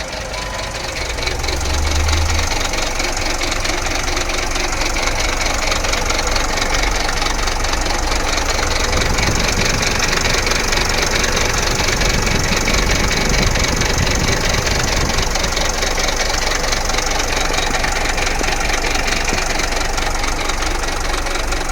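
Isuzu 4KH1 four-cylinder diesel engine running steadily, recorded close.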